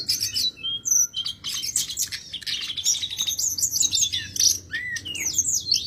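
A sulingan gunung songbird singing in full voice: a fast, unbroken run of high chirps, trills and short whistled slurs.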